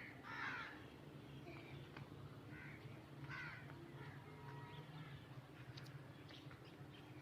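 Birds calling faintly: several short calls about a second apart, the loudest about half a second in, over a low steady hum.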